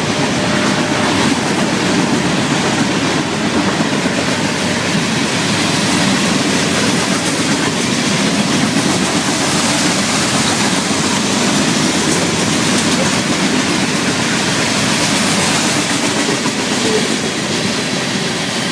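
Florida East Coast Railway freight train passing close by: a loud, steady rumble and rattle of locomotives and cars, with wheels clattering over the rail joints.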